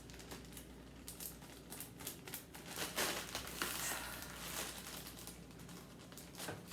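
Plastic food packaging crinkling and rustling as it is handled, with scattered light knocks.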